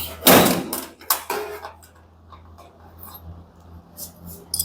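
Knocks and clicks of hands working on a dryer's door and cabinet during disassembly: a few sharp knocks in the first second and a half, then lighter scattered ticks, over a steady low hum.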